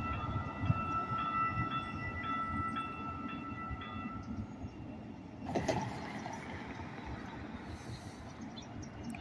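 Light rail train running with a low steady rumble. A high steady tone rings over it for the first four seconds, then stops. A single sharp clank comes about five and a half seconds in.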